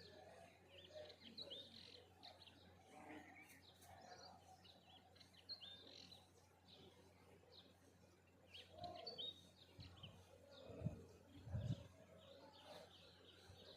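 Several small songbirds chirping and twittering faintly in a dawn chorus, short high chirps in quick scattered runs. Two brief low thumps, louder than the birdsong, come about three-quarters of the way in, over a steady low hum.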